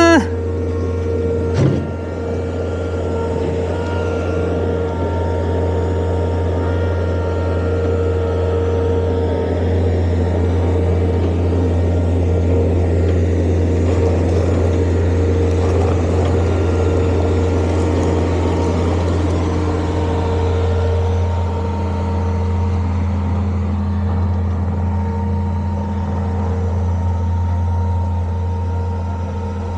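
Bobcat skid-steer loader's engine running steadily at a constant pitch. Right at the start there is a short rising squeal, and about 2 s in a single knock.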